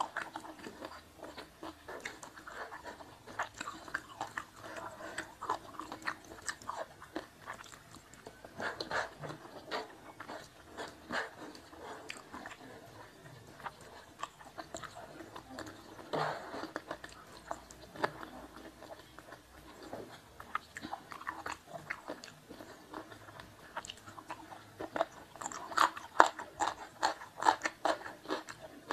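Close-miked chewing and biting of food, with many short crunchy clicks that grow denser and louder near the end.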